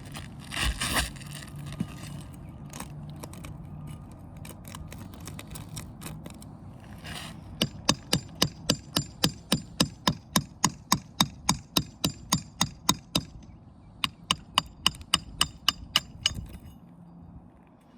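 A brief crunching scrape of asphalt shingle material just after the start, then rapid, evenly spaced metal-on-metal hammer taps, about five a second, in two runs of several seconds with a short pause between, typical of tapping a pry bar under roofing nails to work them loose.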